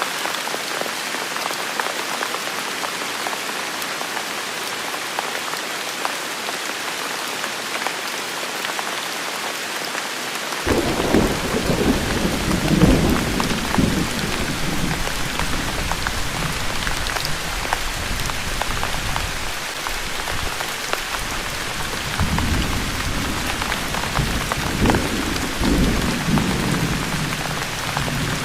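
Steady heavy rain falling on surfaces. About ten seconds in, a deep thunder rumble starts suddenly and rolls on for several seconds, and a second roll of thunder follows near the end.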